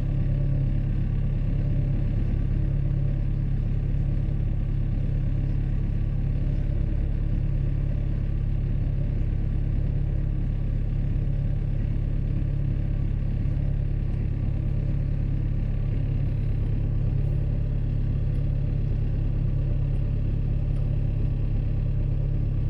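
A boat's engine running steadily at cruising speed, heard on board as an even low drone.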